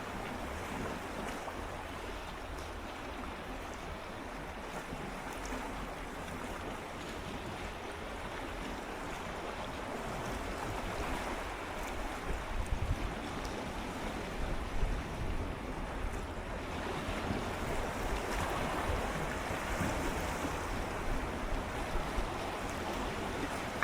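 Gentle sea waves swirling and lapping against shoreline rocks, a continuous wash of water that swells a little louder in the second half, with some wind rumble on the microphone.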